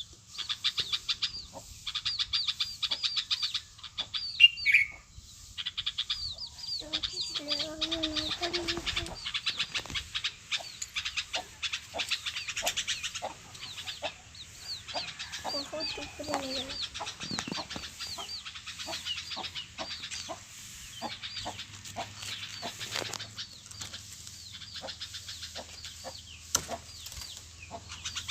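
A crowd of small birds chirping rapidly and without pause, many short high chirps a second, with a few lower, longer calls now and then.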